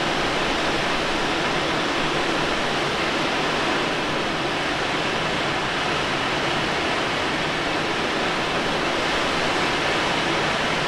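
Steady rush of air around the cockpit of a Let L-13 Blaník glider in flight, an even, loud hiss with no engine sound.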